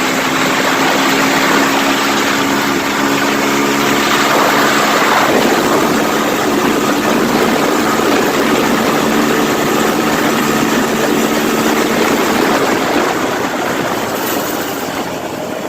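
Small off-road motorbike engines running at a steady pitch, over a loud noisy rush.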